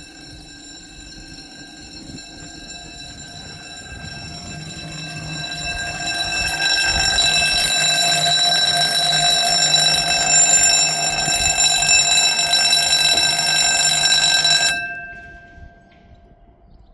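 Level crossing audible warning alarm sounding as one steady multi-tone, growing louder over the first few seconds, then cutting off suddenly near the end.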